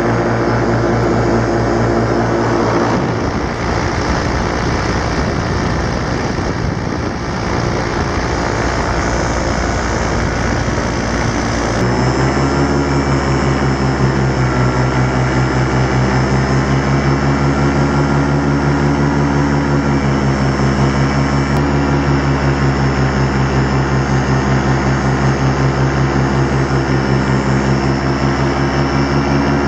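Miniplane Top 80 paramotor's single-cylinder two-stroke engine and propeller running steadily in flight, its freshly rebuilt top end running smoothly. The steady tone turns rough and uneven from about three seconds in, then settles into a stronger steady drone about twelve seconds in.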